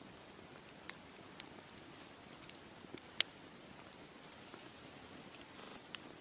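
Wood fire crackling: irregular sharp pops and snaps over a soft hiss, the loudest pop about three seconds in.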